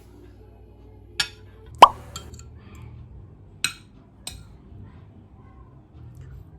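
A few sharp clicks and knocks, with one loud plop about two seconds in whose pitch jumps quickly upward.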